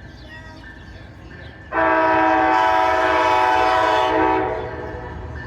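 Locomotive horn sounding one long, loud chord blast of about two and a half seconds, starting almost two seconds in, over the low rumble of the train.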